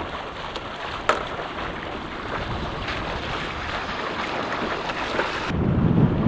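Wind buffeting the microphone over a steady hiss of wind and water, with one sharp knock about a second in. About five and a half seconds in, the wind noise turns suddenly louder and deeper.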